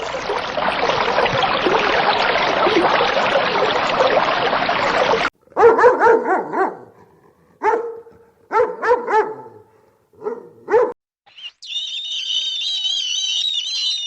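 A dog barking in short bursts of one to three barks, starting after a dense, noisy sound that cuts off suddenly about five seconds in. A high-pitched wavering sound begins near the end.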